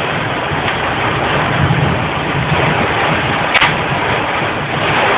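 Heavy rain pouring down on a car, a dense steady hiss over a low rumble from the car. One sharp knock about three and a half seconds in.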